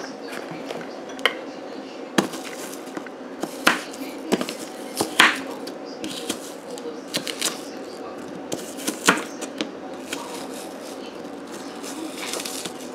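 Food being chopped with a knife on a cutting board: irregular, uneven knocks with some kitchen clatter.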